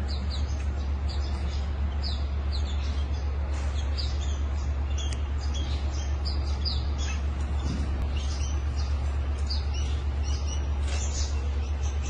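Small birds chirping over and over, a quick run of short, high chirps, each sliding down in pitch, over a steady low hum.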